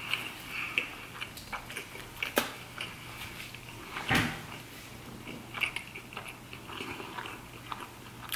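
A person chewing a mouthful of food with the mouth closed, close to the microphone: soft wet smacks and small clicks, with one louder sound about four seconds in.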